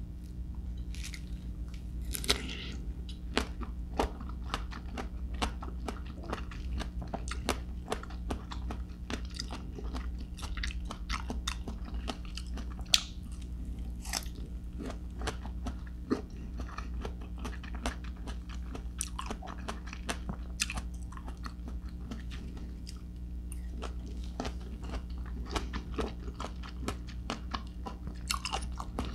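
A person biting into and chewing slices of crisp persimmon, with many short, irregular crunches.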